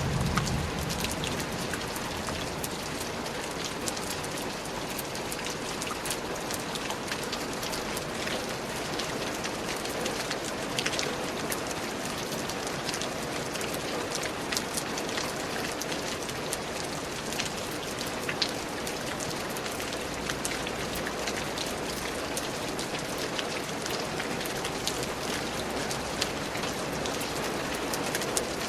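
Steady rain falling on forest vegetation, a dense even hiss dotted with the sharp taps of individual drops close by.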